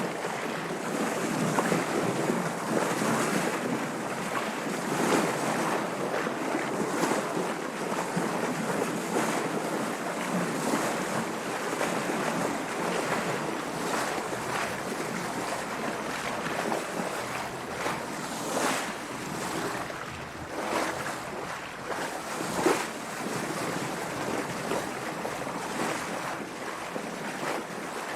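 Water splashing and washing against a sailing boat's hull in choppy sea, with wind on the microphone; the splashes come in irregular surges.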